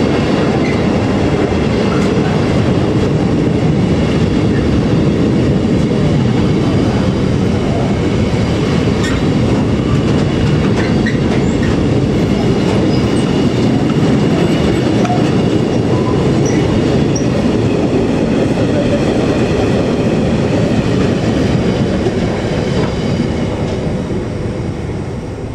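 Train rolling past on the rails: a loud, steady rumble of wheels on track that fades away over the last few seconds.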